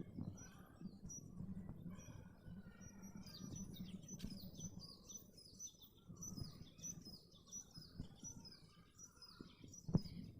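Small birds chirping, many short high notes falling in pitch, busiest through the middle, over a low steady background rumble. A single sharp click sounds near the end.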